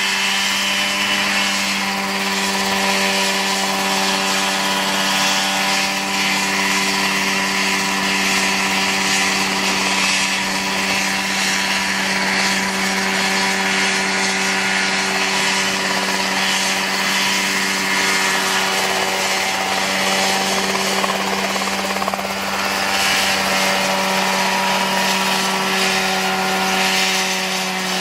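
Homemade Mosquito ultralight helicopter's engine running steadily at a constant pitch, with a hiss of rotor and airflow noise over it.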